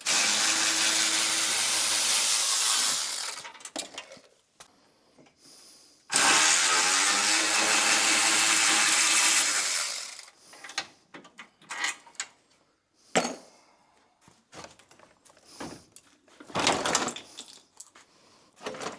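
Handheld power tool run in two long bursts, about three and four seconds each, spinning out bolts on the truck's front end, followed by scattered light clicks and knocks of parts being handled.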